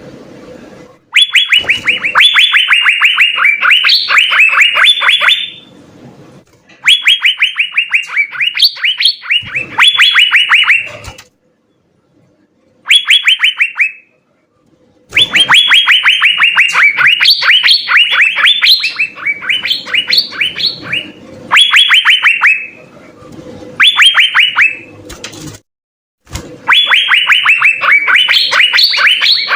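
Asian fairy-bluebird (cucak biru) singing: rapid runs of short, clear, downslurred notes, about ten a second, in loud phrases of one to several seconds. The phrases are broken by sudden silences.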